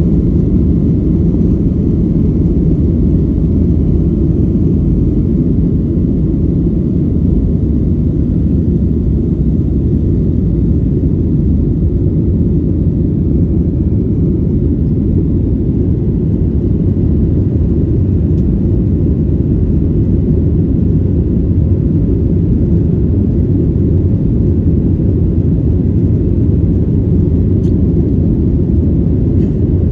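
Steady low drone of a Boeing 737-900's engines and airflow, heard inside the passenger cabin in flight.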